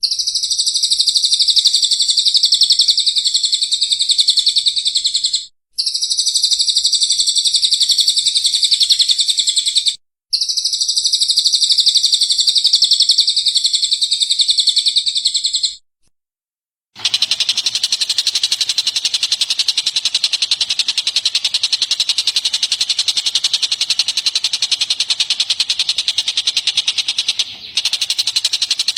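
Recorded songbird calls: rapid, high-pitched chirping in three long bursts separated by abrupt cuts. After a moment of silence a different bird's harsh, buzzy, rapidly pulsing call takes over.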